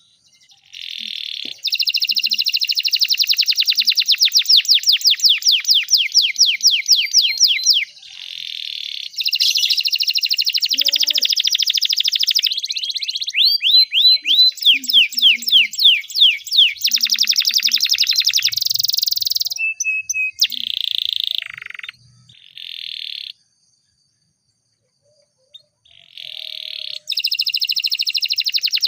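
Domestic canary singing long rolling trills of rapid repeated notes, with phrases of quick falling notes in between, broken by short pauses and one silence of about two seconds near two-thirds of the way through.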